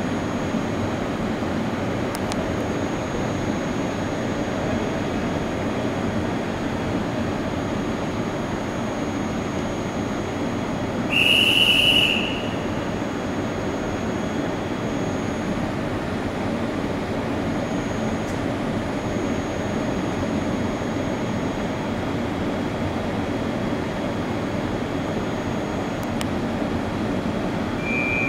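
An electric passenger locomotive and its coaches stand at a platform, giving a steady mechanical hum. About eleven seconds in there is one short, high-pitched whistle blast, roughly a second long, which is the loudest sound.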